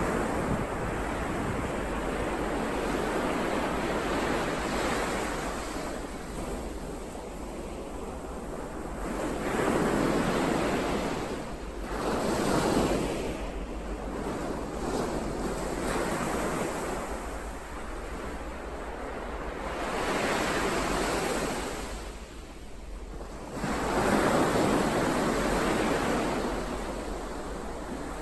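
Ocean surf: waves breaking and washing in, the rush swelling and fading in slow surges several seconds apart.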